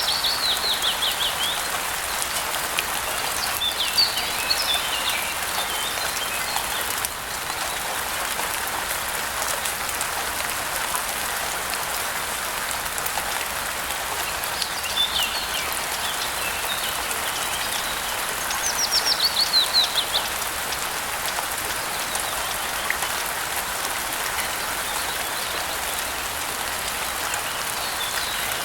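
Steady rain hiss with birds calling through it. A quick falling trill of high notes comes near the start and again about two-thirds of the way through, with scattered chirps in between.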